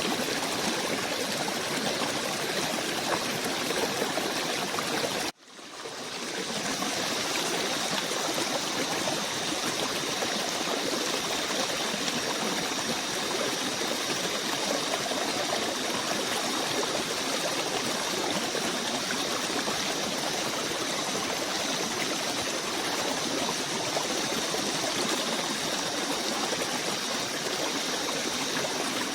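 Steady rushing of a flowing stream. About five seconds in, the sound cuts out for an instant and fades back in, like a splice between loops of the recording.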